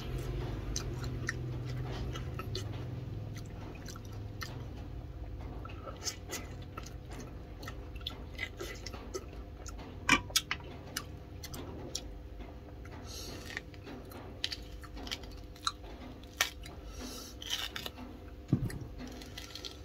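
Close-up chewing and mouth sounds of a man eating boiled chicken, with scattered sharp clicks of a metal spoon against a ceramic bowl. Near the end, rustling and tearing as he peels a pomelo.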